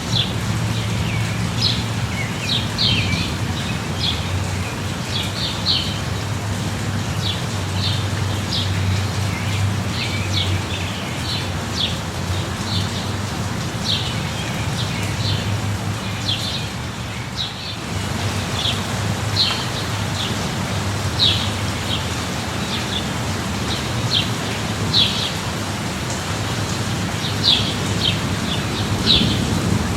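Steady rain with a low, even rumble beneath it, while songbirds chirp in short high notes every second or so throughout.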